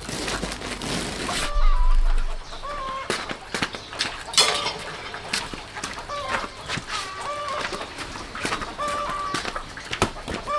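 Chickens clucking, short calls every second or two, with scattered sharp clicks and knocks.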